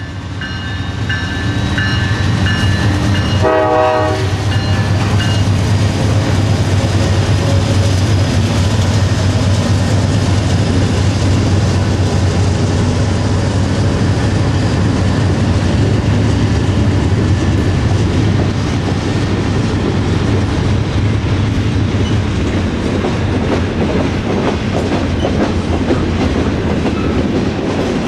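Train passing close by: a short horn blast about four seconds in, then a loud steady rumble of the diesel locomotives and the cars rolling by, with wheels clattering over the rail joints in the later part.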